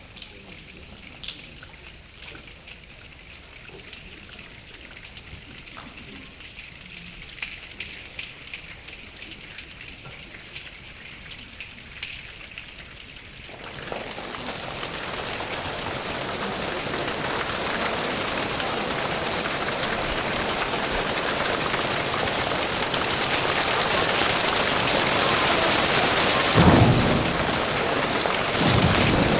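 A choir making a rainstorm with body percussion: scattered finger snaps build into a dense rushing patter of many hands that swells steadily louder, with a few heavy thumps like thunder near the end.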